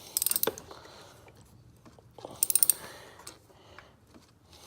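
Hand ratchet clicking in two short rapid bursts as its pawl ratchets on the back-swing, while a new spark plug is turned down snug in the engine head.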